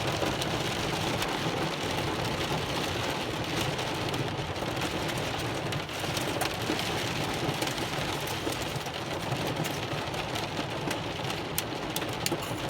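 Heavy rain pouring steadily, with scattered sharp ticks of light hail striking, which come more often in the second half.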